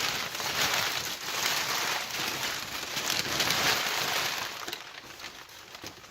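Packing paper crumpling and rustling as it is handled and pulled out of a box, a dense crackle that eases off over the last second or two.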